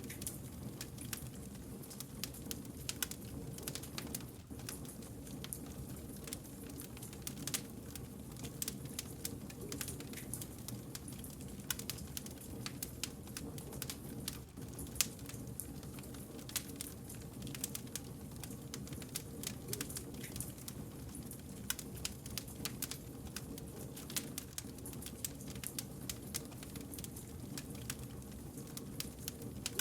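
Firewood burning in a campfire: frequent sharp crackles and pops, irregular and scattered throughout, over a steady low hum of the flames.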